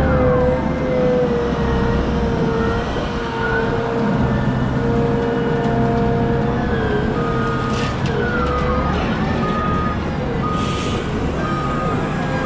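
Caterpillar 972M XE wheel loader's engine and drivetrain running under work, with a steady whine that sags and rises in pitch. From about seven seconds in, a reversing alarm beeps steadily, a little more than once a second, and two short hisses cut in.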